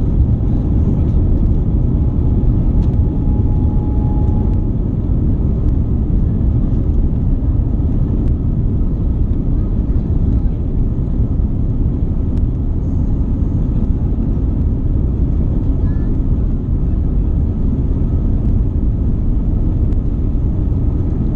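Steady low rumble of an Airbus A350-900 airliner cabin, its Rolls-Royce Trent XWB engines and airframe noise running evenly with no change in pitch, with a faint thin whine during the first few seconds.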